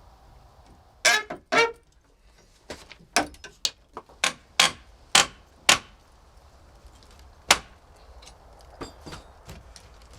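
A hammer striking wood: about a dozen sharp blows with a short ringing tail, coming in a quick uneven run and then one last hard blow a couple of seconds later.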